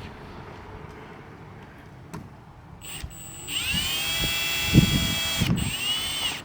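A cordless drill spins up and runs steadily for about two seconds, stops briefly, then spins up and runs again. A few low knocks sound underneath.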